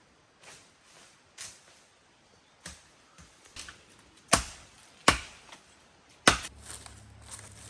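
A blade chopping into wood: a series of irregular sharp strikes, the three loudest about four, five and six seconds in.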